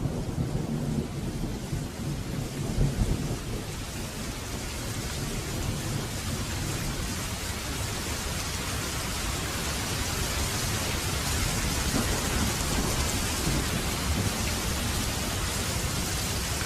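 Heavy rain falling steadily, with a low rumble of thunder in the first few seconds that dies away; the rain's hiss grows a little stronger in the second half.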